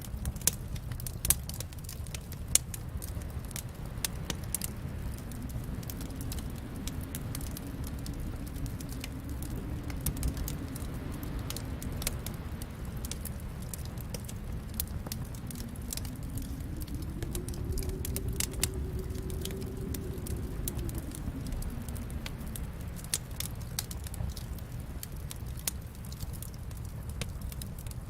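Wood fire crackling in a fireplace: irregular sharp pops and snaps over a steady low rumble of the flames, with a faint low tone that slowly wavers up and down in pitch.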